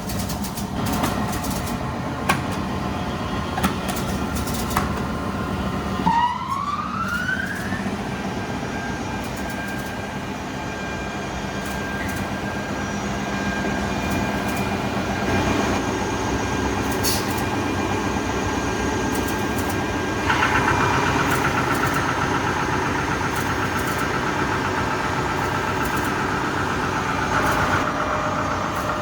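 Bütfering Classic 113-E wide belt sander starting up: a few sharp clicks, then a rising whine about six seconds in as the machine spins up, settling into a steady running hum. About twenty seconds in the sound grows louder and busier.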